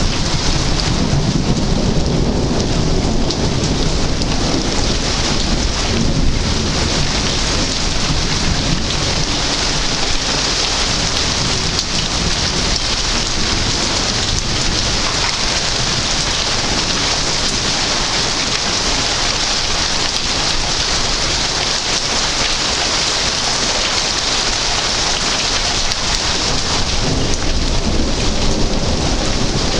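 Heavy thunderstorm rain pouring steadily, with thunder rumbling low in the first few seconds.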